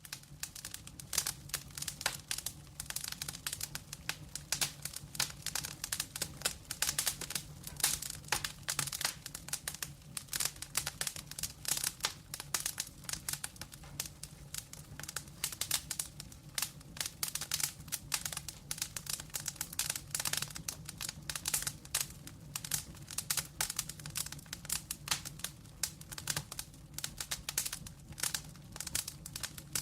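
Wood fire in a fireplace, logs burning with dense, irregular crackling and snapping, over a steady low hum.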